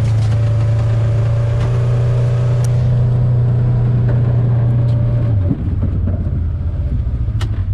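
A vehicle engine idling steadily with a low, even hum, which drops slightly in pitch and loudness about five and a half seconds in.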